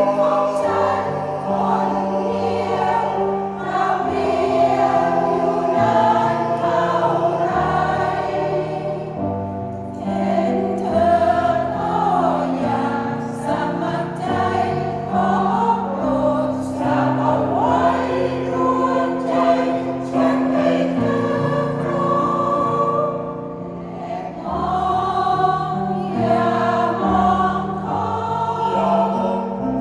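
Senior choir singing in parts, with long held chords over a bass line that moves in steps, and short breaks between phrases twice.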